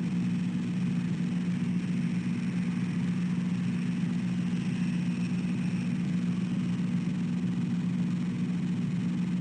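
A steady low hum that holds an even pitch and level throughout, with a faint hiss above it.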